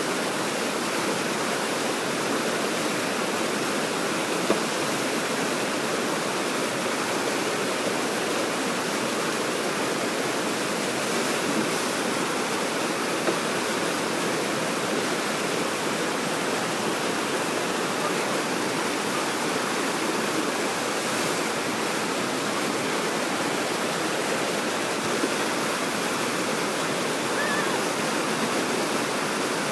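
Water pouring over a river weir: a steady, unbroken rush of white water.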